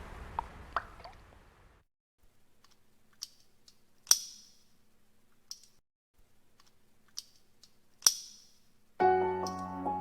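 Sharp single clicks every second or two over near silence, the loudest about four and eight seconds in, after a faint hiss fades out. Piano music starts near the end.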